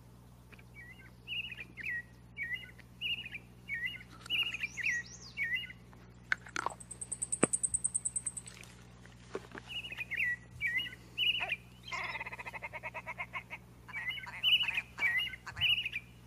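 A thrush (Indonesian 'anis') singing short, varied whistled phrases with pauses between them. It gives a fast high trill a little before the middle and a buzzy rattling phrase about three quarters of the way through.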